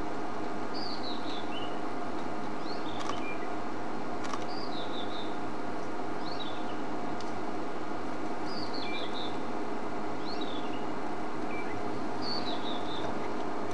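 A songbird repeating a short phrase of quick descending high notes, about once every four seconds, each phrase followed by a single downward-swooping call. Under it is a steady low hum.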